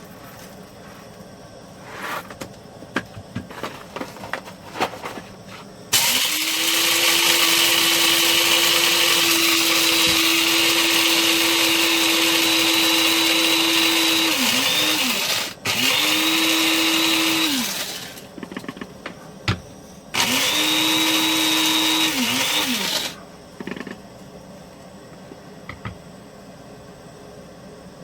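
Electric coffee grinder grinding coffee beans in three runs, one long and two short, its motor at a steady pitch and dropping as it spins down after each, to get the grind just right. Some clicks and rattling of handling come before the first run.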